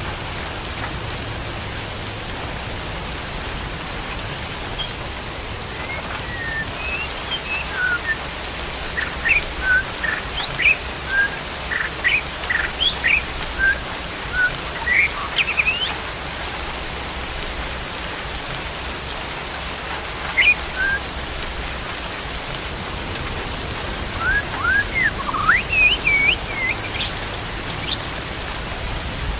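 Steady rain falling, with a songbird chirping and whistling in short bursts of quick notes about a third of the way in and again near the end.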